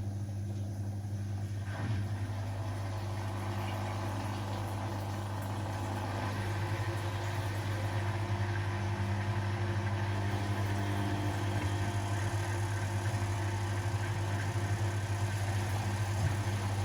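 Household laundry machines running: a steady low motor hum with a few steady tones above it, growing a little louder about six seconds in.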